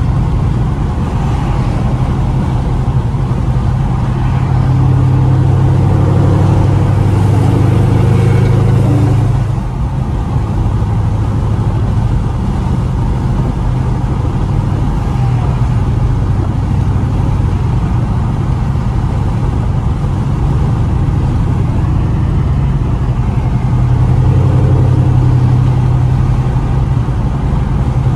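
2016 Chevrolet Camaro SS's 6.2-litre V8 and exhaust droning at highway cruise, heard from inside the cabin with road noise. It grows louder for several seconds under more throttle, eases off about ten seconds in, and swells again near the end.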